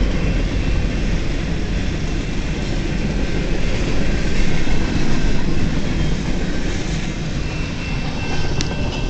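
Long CN freight train's cars rolling past, a steady rumble and clatter of steel wheels on the rails.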